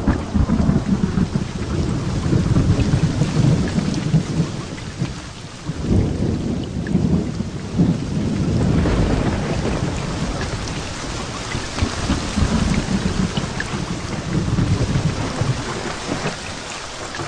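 Heavy rain falling steadily in a thunderstorm. Thunder rumbles low underneath, swelling and fading several times.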